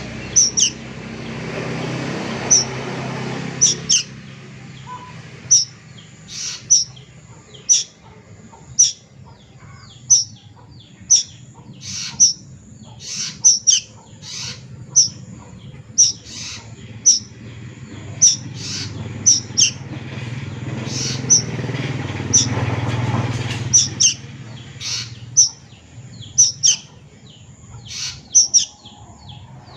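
Juvenile kedasih cuckoo giving short, high, falling calls over and over, roughly one a second, some in quick pairs. A low rumble swells and fades twice, near the start and again about two-thirds of the way through.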